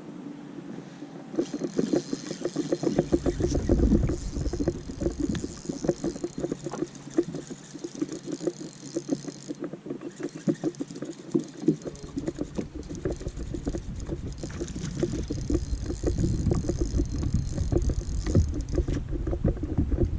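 Small boat sitting on the water, with choppy, irregular small knocks against the hull and wind buffeting the microphone. A high hiss-like sound switches on and off twice.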